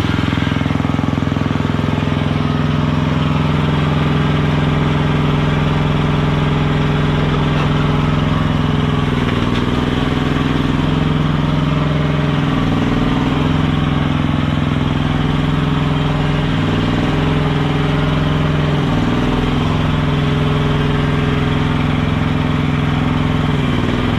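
TYM compact tractor's diesel engine idling steadily, its note dipping briefly a few times as it takes a load.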